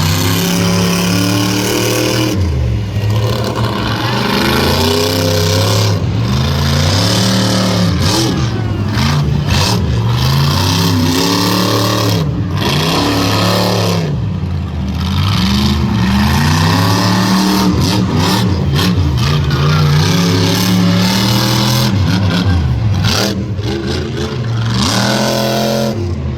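Monster truck engine revving hard, its pitch climbing and dropping again and again as the throttle is worked.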